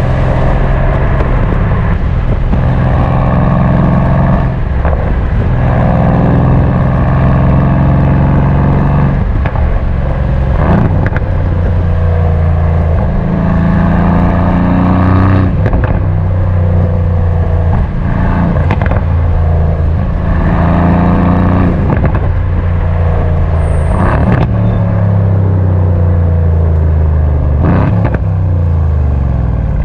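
Mercedes-AMG C63 S twin-turbo V8 pulling hard through the gears. The engine note climbs, then drops at each upshift with a sharp crack from the exhaust, about every few seconds. Near the end it winds down as the car slows.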